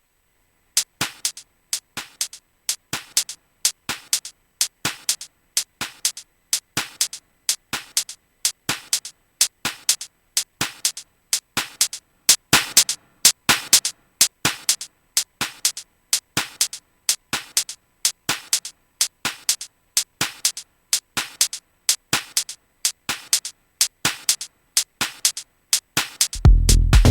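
Drum-machine percussion loop programmed in Maschine: short, bright hits repeating in a steady pattern, with no bass underneath. Near the end a heavy low kick and bass part comes in.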